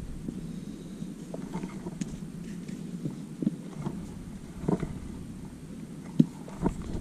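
A climber's hands and shoes on rock, making a few short scuffs and taps at irregular intervals over a low rumble of wind on the microphone.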